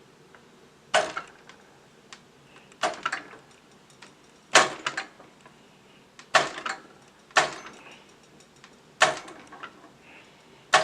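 A push switch on a homemade electric motorbike being pressed over and over: about seven sharp plastic-and-metal clacks, each with a short rattle, one to two seconds apart, with no motor heard running between them.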